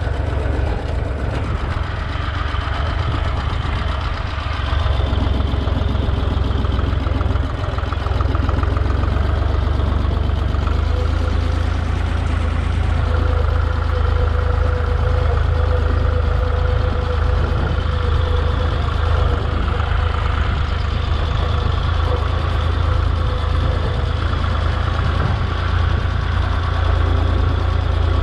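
Holder A45 vineyard tractor engine running steadily, a little louder from about five seconds in.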